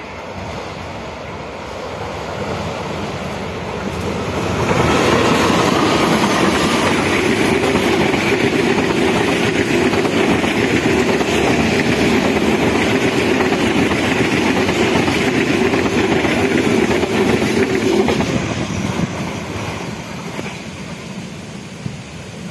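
Diesel-hauled passenger train passing close by on ballasted track. The locomotive and wheels on the rails grow louder over the first few seconds, the coaches' wheel noise runs steadily, then it fades as the train moves away near the end.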